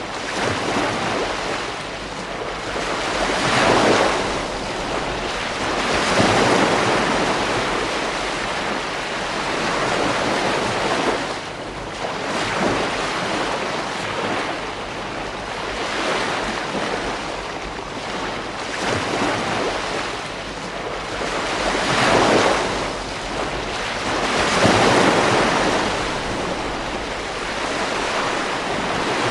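Ocean waves breaking and washing on a beach, surging every few seconds and easing back between breakers.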